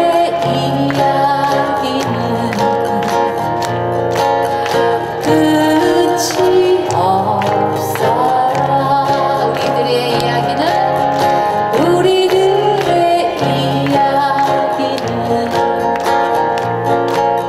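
Live music: a female singer's song over a backing band track with guitar and a steady bass pulse.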